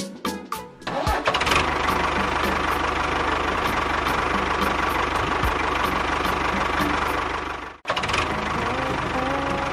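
Engine running steadily with a faint regular ticking. It starts about a second in, after a few short clinks, cuts out abruptly near the end and starts again at once.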